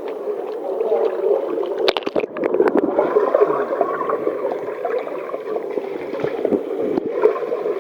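Pool water gurgling and sloshing around a kayak as it capsizes and rolls back up, with a cluster of sharp splashes and knocks about two seconds in.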